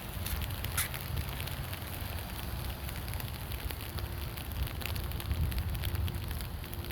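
Light rain pattering, with scattered drops ticking over a steady hiss, and a low rumble of wind on the microphone.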